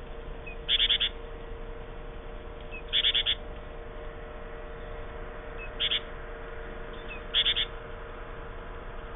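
A bird calling: four short bursts of rapid chirps, a couple of seconds apart, over a steady faint hum.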